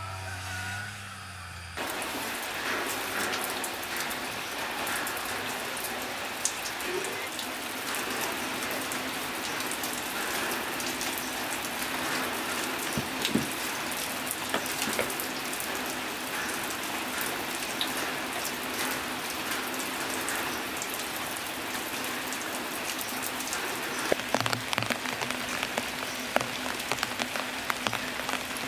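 Steady rain falling, a dense patter of drops on wet ground and leaves, starting about two seconds in after a quieter stretch with a low hum. Near the end, scattered knocks and thumps sound over the rain.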